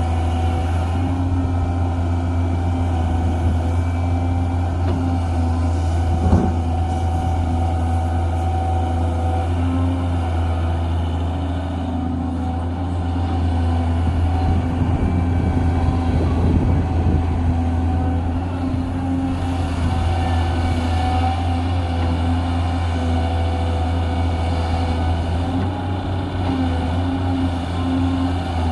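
Cat 320 hydraulic excavator's diesel engine running steadily, a low drone, with a single sharp knock about six seconds in.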